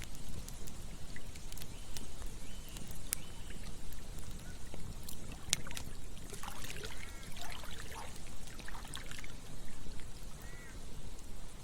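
Campfire crackling, with scattered sharp pops, over the steady low rush of flowing river water. A run of short chirping calls comes about halfway through and again briefly near the end.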